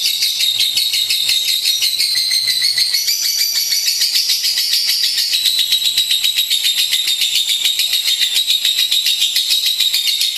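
Lovebird singing a long, unbroken stream of rapid, high-pitched chirps and trills, pitched a little higher for a couple of seconds in the middle.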